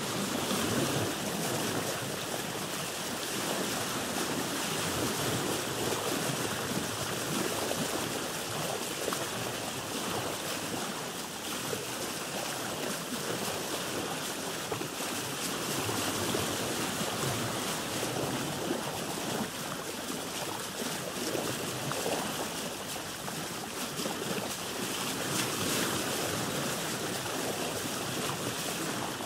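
Sea water washing and lapping against a boat's hull, a steady rushing wash that swells and eases gently, with some wind on the microphone.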